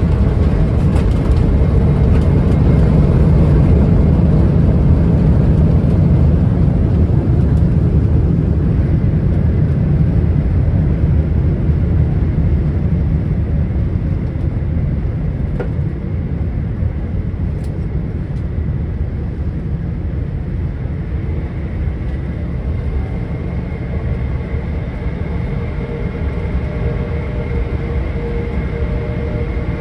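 Boeing 777-300ER cabin noise as the airliner slows on the ground after landing: a loud low rumble that is strongest in the first few seconds and eases off over the next twenty. A steadier engine hum with a faint high whine is left near the end.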